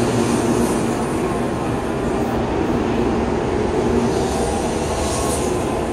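A Shinkansen train (N700 series, Sakura service) moving past along a station platform, a steady loud rushing and rumbling of the train in motion.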